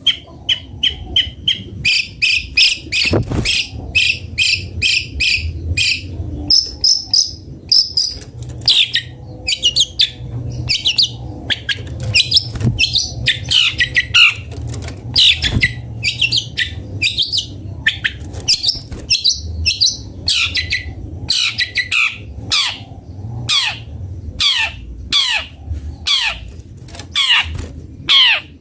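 Long-tailed shrike (cendet) singing a fast, varied song of short chattering notes. About two-thirds of the way through it settles into repeated downward-sweeping notes, about two a second.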